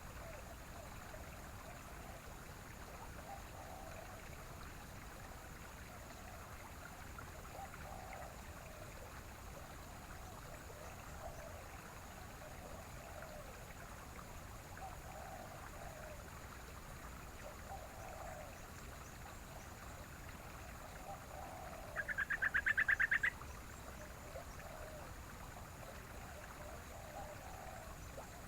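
Sooty-headed bulbul (trucukan) bird-call audio over a steady background of running water, with soft low calls repeating every couple of seconds. A loud, rapid chattering burst comes about 22 seconds in and lasts just over a second.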